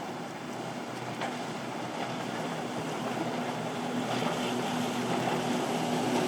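A motorboat's engines drone, growing steadily louder as the boat approaches, over the wash of waves and wind on the microphone.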